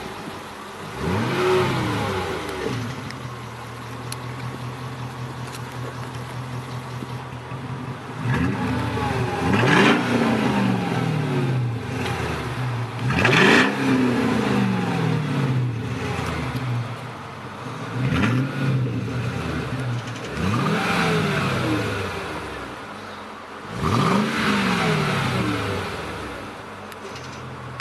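Mercedes CL 500 AMG V8 through a custom stainless duplex sport exhaust with a cut-out valve, idling and revved repeatedly. Its pitch climbs and drops straight back about six times, with the biggest revs near the middle.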